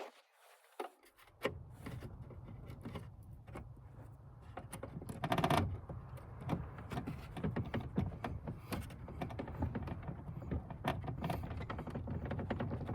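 Handling noises of hand work on small metal parts: scattered clicks, taps and light scrapes over a low steady hum, starting after a second or so of silence.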